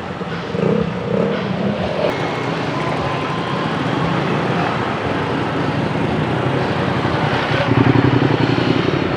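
Street traffic: motorcycle and car engines running and passing, with one vehicle louder, as if passing close, about eight seconds in.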